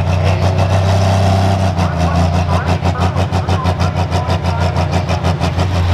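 Large engine idling. Steady at first, then pulsing rhythmically about six times a second from about two seconds in, before settling back to a steady note near the end.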